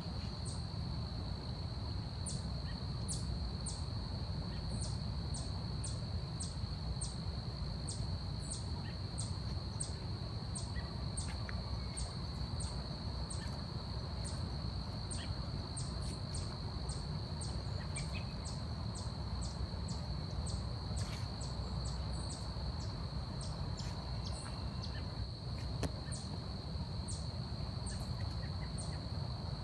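Forest ambience: a steady high-pitched insect drone runs throughout, with short sharp ticks about one to two times a second, over a low rumble.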